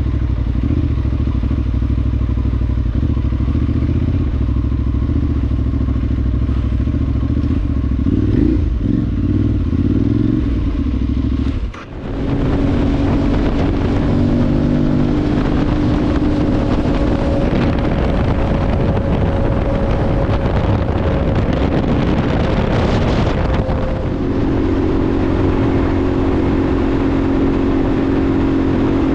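Motorcycle engine running while being ridden off-road, held at a fairly steady pitch. About twelve seconds in the sound drops out briefly and picks up again with more hiss and clatter over the engine, and the steady engine note returns near the end.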